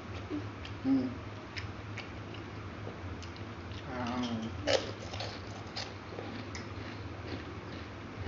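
Kerupuk crackers being bitten and chewed close to the microphone: scattered crisp crunches and clicks, with a sharper crack about four and a half seconds in. Short murmurs of voice twice and a steady low hum underneath.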